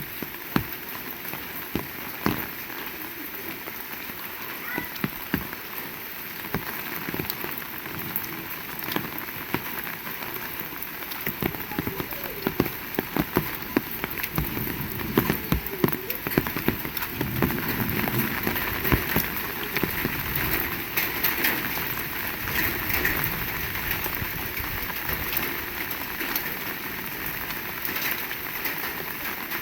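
Heavy rain falling steadily: a dense hiss of rain with many single drops and drips striking close by. It gets somewhat heavier about halfway through.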